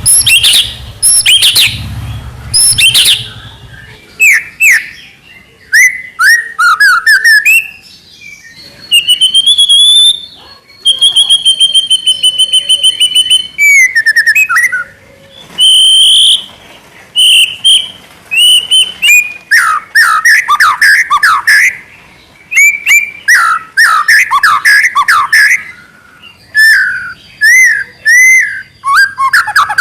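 White-rumped shama singing loudly in a varied string of phrases: quick sweeping whistles, clear held notes, and a fast rattling run of repeated notes, the rapid-fire 'trotol' style of song.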